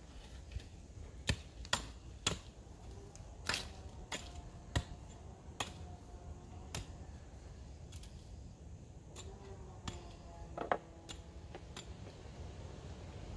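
Irregular sharp clicks and knocks, roughly one a second, over a low steady background.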